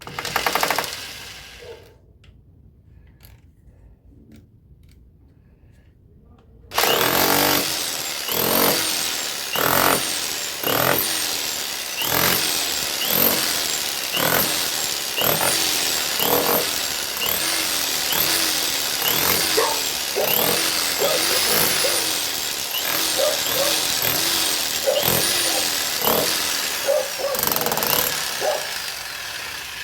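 Tool work in regular strokes, about one a second, starting about seven seconds in and going on steadily, each stroke with a short gliding pitch. A brief loud sound comes right at the start, before a quieter stretch.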